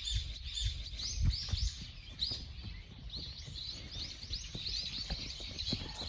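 Small birds chirping, several short calls a second, over a low rumble.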